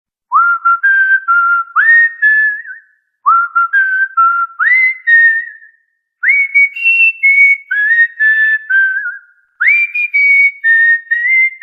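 A clear whistled tune in four short phrases, each about three seconds long with brief pauses between them. Each note opens with a quick upward swoop and then holds, and the first two phrases repeat the same melody: a cockatiel-style whistle.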